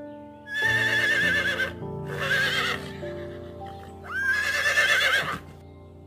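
Horse whinnying three times, each a loud, quavering call, over steady background music.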